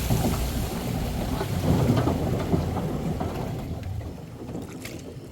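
A small boat pushing into thick floating river vegetation, giving a rumbling, rustling noise with scattered crackles that gradually dies away.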